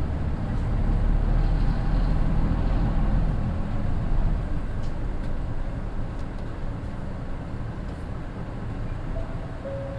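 Mitsubishi Fuso Aero Midi bus's naturally aspirated 6M61 inline-six diesel running under load, heard from inside the bus. It is loudest for about the first four seconds, then eases to a quieter, steady drone as the load comes off.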